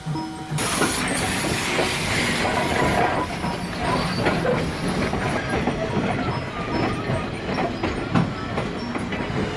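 Steam locomotive running, starting suddenly about half a second in with a loud hiss of steam that eases after a few seconds, under a steady run of clicks and knocks from the wheels and running gear.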